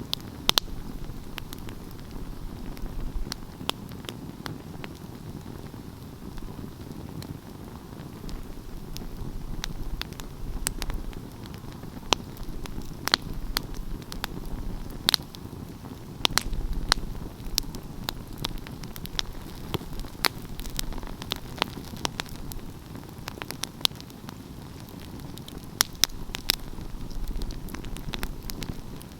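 Wood fire burning, with a steady low rumble of flames and frequent sharp crackles and pops at irregular intervals.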